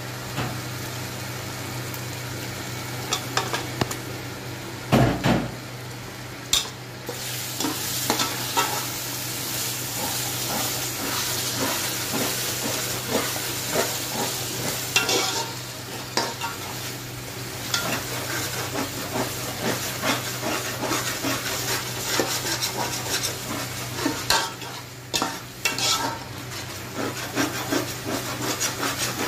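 Chicken pieces sizzling in hot oil and masala in an aluminium pot, while a metal spatula stirs and scrapes against the pot with irregular clinks and knocks. The loudest knock comes about five seconds in.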